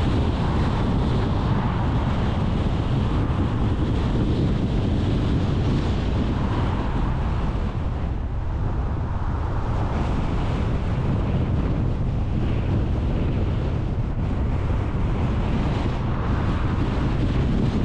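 Steady road and wind noise of a car on the move: a deep rumble with a hiss above it, easing a little about eight seconds in.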